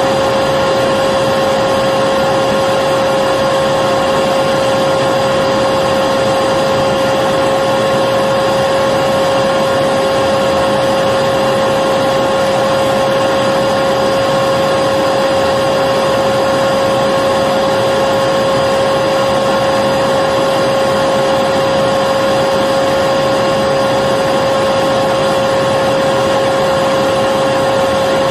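Electric vacuum cleaner running steadily: an unchanging motor whine over a rush of air, with no breaks or changes in speed.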